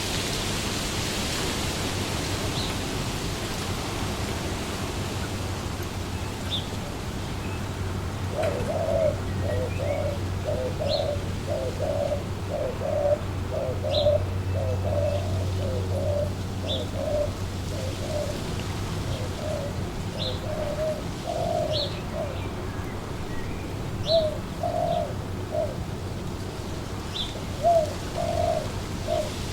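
Wind blowing through trees as a steady hiss, with a dove cooing in a long run of short low notes from about eight seconds in, and short high bird chirps every second or two.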